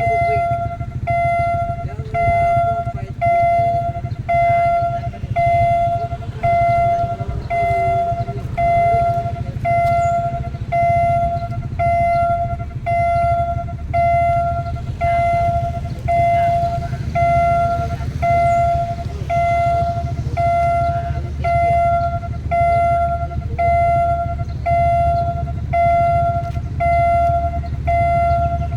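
Railway level-crossing warning alarm sounding a steady electronic tone in even pulses, a little under once a second, over a continuous low rumble that grows louder about halfway through.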